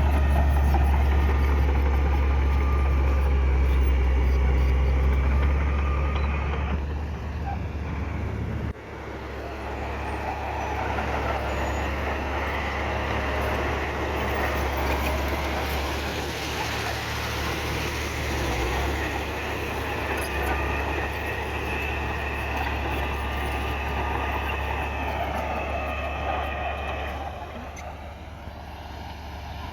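Heavy diesel earthmoving machinery running under load, a steady low engine drone with a whine above it. The sound changes abruptly about nine seconds in and eases off near the end.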